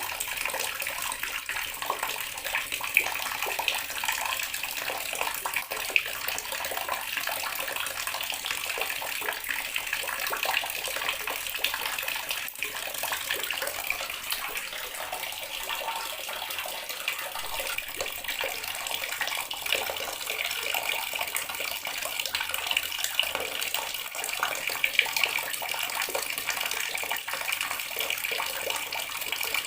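Water running steadily from a tap and splashing, a continuous hiss of falling water with small splashes scattered through it.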